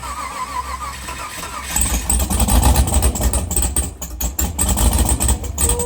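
LS V8 engine on its first start after the swap: turning over, then catching and running louder from about two seconds in.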